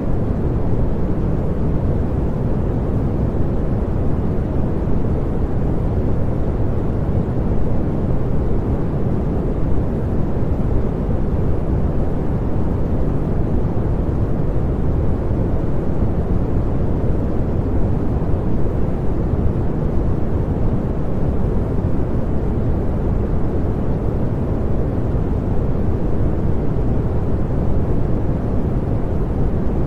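Continuous generated pink noise: a steady, even rush, strongest and deepest in the low end and fading toward the treble, with no changes or breaks.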